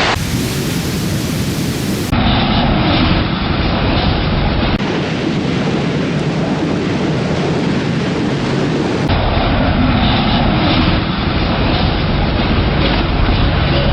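Strong storm wind and rain, a loud, steady rushing roar buffeting the microphone, changing abruptly a few times as one clip cuts to the next.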